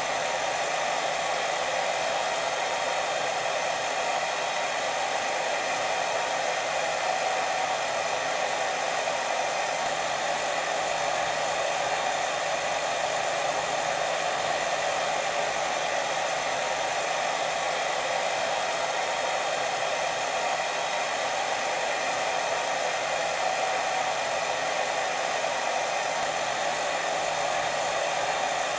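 Steady white noise for sleep: an even, unbroken hiss, fullest in the middle range, that does not change.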